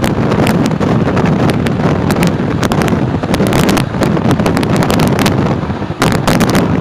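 Moving passenger train, with wind rushing on the phone's microphone over a steady rumble and irregular sharp clicks from the run of the train.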